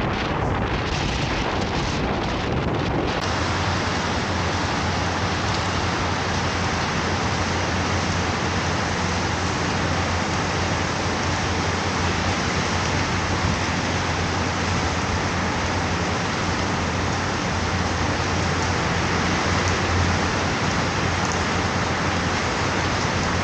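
Strong wind rushing steadily, a dense hiss over a low rumble, gusting unevenly for the first few seconds and then holding even.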